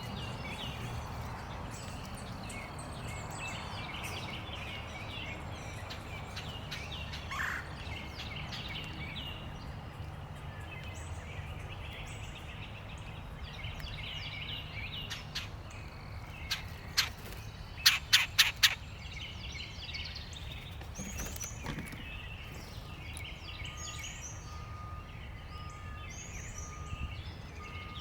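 Small birds chirping and twittering around a backyard feeder over a steady low outdoor hum. About two-thirds of the way in comes a quick run of about five sharp, loud knocks.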